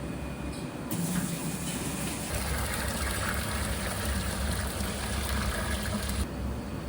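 Water running hard from a tap, turned on about a second in and shut off abruptly near the end, over a low steady hum.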